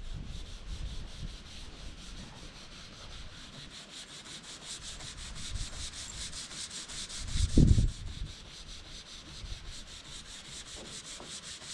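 Pneumatic sander sanding old paint off a truck's fender flares: a steady, evenly pulsing hiss. A brief low thump about two-thirds of the way through.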